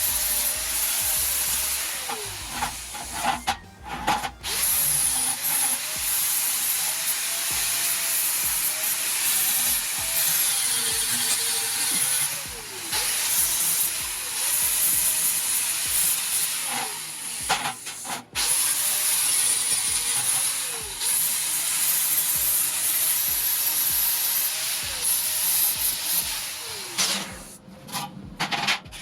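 Handheld power grinder working steel, its motor's pitch repeatedly sagging and recovering as it is pressed into the metal. It stops briefly a few times, near 4 seconds, midway and near the end.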